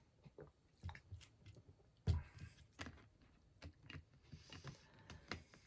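Quiet mouth sounds of a person drinking and chewing grass jelly drink: soft wet clicks and smacks, with a louder knock about two seconds in.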